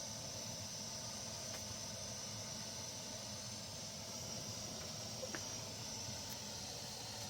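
Steady hiss with a few faint clicks, about a second and a half in and again near five seconds.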